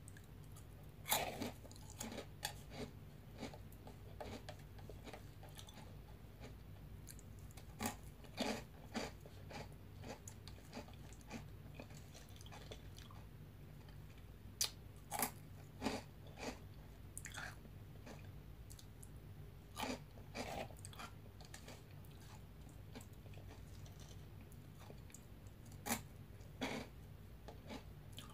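A person biting and chewing crunchy veggie straws dipped in yogurt, close to the microphone, in bursts of crunching every few seconds. A faint steady low hum lies underneath.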